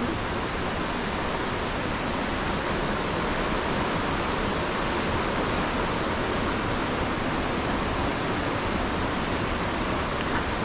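Waterfall's falling water, a steady, even rush with no let-up.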